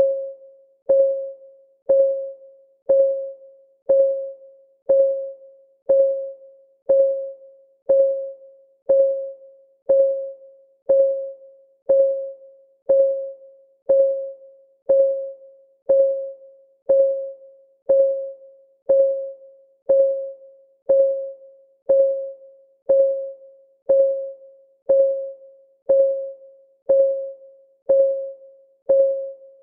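Countdown-timer clock tick, once a second: each tick a short, mid-pitched tone that rings briefly and fades, in an even, unbroken rhythm.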